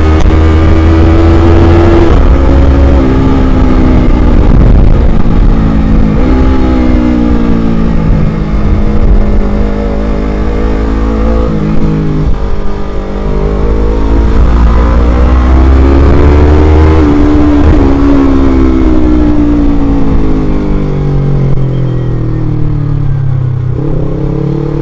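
Motorcycle engine running under the rider, its pitch climbing and dropping repeatedly as the bike accelerates and eases off, then falling a few seconds before the end as it slows. A steady low rumble of wind on the microphone runs underneath.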